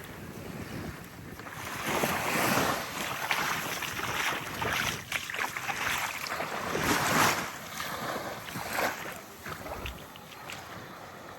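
Small sea waves lapping and washing up the sand, swelling loudest twice, with wind rumbling on the microphone.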